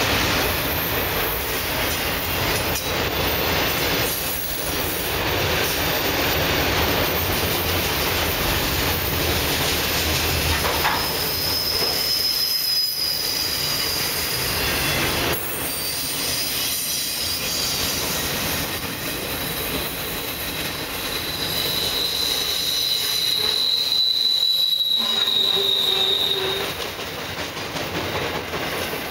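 Loaded autorack freight cars rolling past: a continuous rumble and rattle of steel wheels on the rails. High-pitched wheel squeals come and go over it, a short one near the middle and a longer one lasting several seconds near the end.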